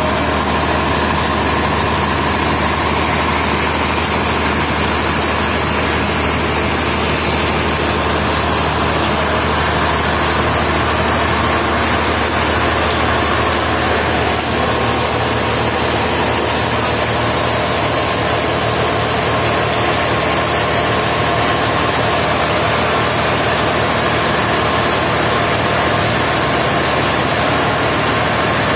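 Sawmill machinery running steadily: a loud, constant engine drone with an even hum and no breaks or changes.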